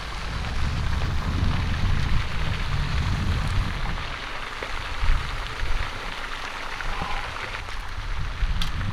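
Wind buffeting the microphone outdoors: an uneven, gusting low rumble over a steady hiss.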